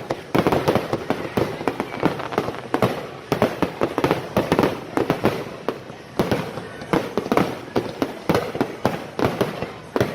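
Fireworks display: rapid, overlapping bangs and crackling pops, several a second, coming in clusters with short lulls between.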